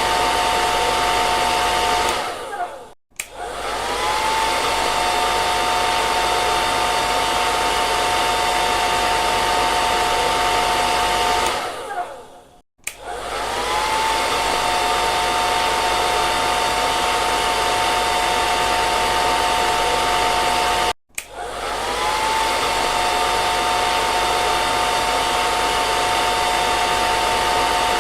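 Electric hair dryer running steadily, with a whistling whine over its blowing noise. Three times, at about 3, 12 and 21 seconds, it cuts out for a moment: the whine sinks, then rises back as it starts up again.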